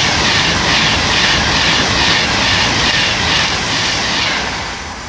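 Virgin Trains Class 390 Pendolino electric train passing through the station at speed: a loud, steady rush of wheels on rail that eases off near the end.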